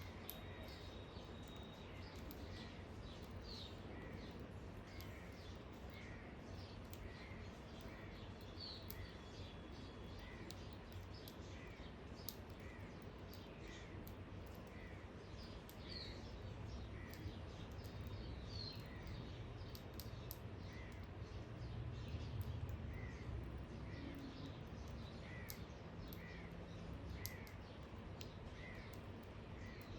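Birds calling: one bird repeats a short note over and over, about once a second, and a few higher chirps come in now and then. A steady low background rumble runs underneath and grows louder for a moment past the middle.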